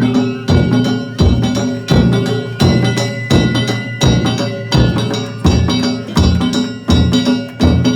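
Danjiri festival percussion (narimono): a taiko drum struck together with ringing kane hand gongs in a steady, driving rhythm of about three beats a second.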